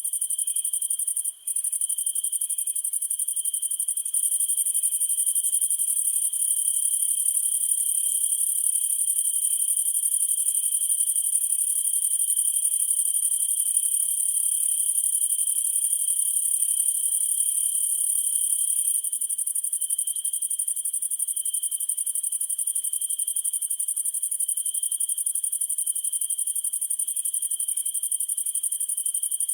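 A chorus of crickets and other night insects: a continuous high-pitched trill over a lower steady chirping, with a fainter chirp repeating about twice a second. The sound drops out for a split second about a second and a half in.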